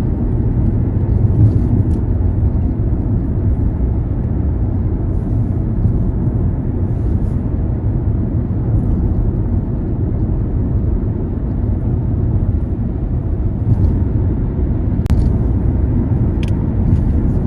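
Steady low rumble of a car on the move: engine and tyre noise on the road, with a couple of faint clicks near the end.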